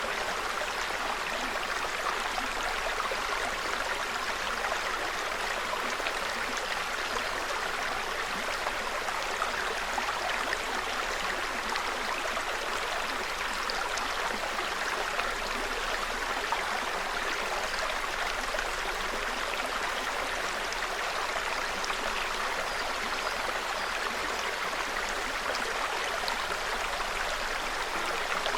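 Small forest stream babbling steadily over stones, a constant rush of water with small splashes and trickles scattered through it.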